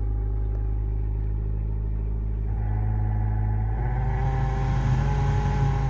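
Honda CR-V RD1 heater blower fan running with a steady droning hum, the noise that the fan motor makes when it needs oiling. About two and a half seconds in, a higher whine joins, and it gets stronger a second or so later.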